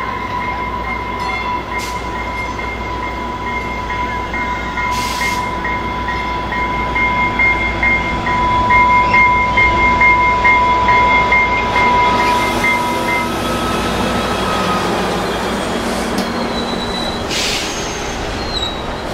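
Passenger train rolling through with a steady, high-pitched wheel squeal that stops about two-thirds of the way in, leaving the rumble of the train.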